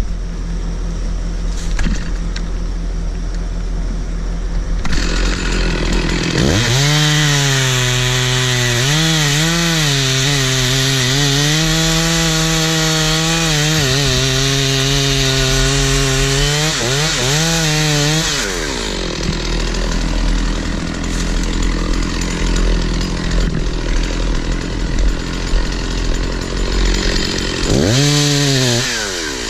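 Stihl 046 two-stroke chainsaw idling, then revved up about six seconds in and held at full throttle cutting wood, the pitch dipping and recovering under load. It drops back about eighteen seconds in and revs up briefly again near the end.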